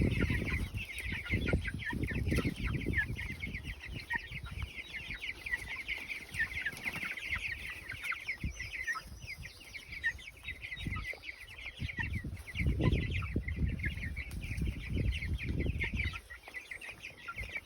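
A flock of Cornish Cross broiler chicks peeping continuously, many short high calls overlapping. Bursts of low rumble come and go, strongest near the start and again later on.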